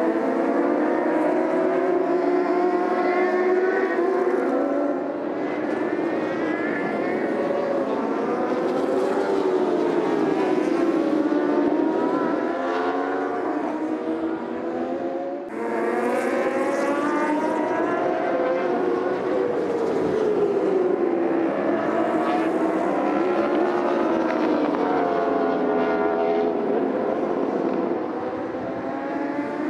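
Racing superbikes' inline-four engines revving hard. The pitch climbs through each gear and falls back on downshifts and as bikes go by, over and over. The sound dips briefly about halfway through.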